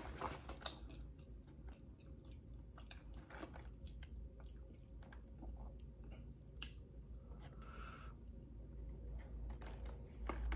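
Faint, close-miked chewing with soft wet mouth clicks from eating.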